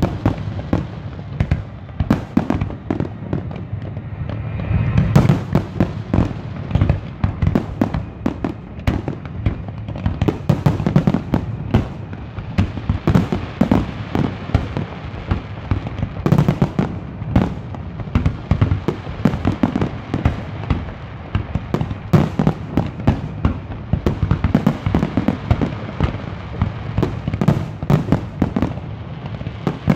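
Fireworks display: aerial shells and ground-fired comets going off in a rapid, unbroken barrage of bangs, several a second.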